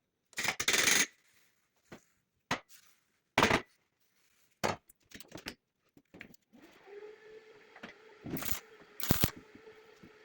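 Metal parts knocking and clanking, several separate sharp hits, then a small electric motor starts humming steadily about six seconds in, with two more loud clanks over it.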